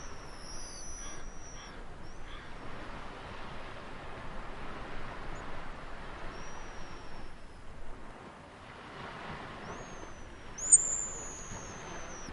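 Sea waves washing in a steady hiss that swells and eases, with several thin, high whistled bird calls that slide down in pitch. The loudest is a sharp call near the end.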